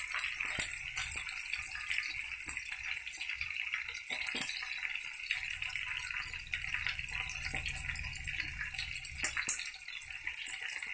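Chicken and tofu frying in hot oil in a wok: a steady sizzle with scattered pops and crackles.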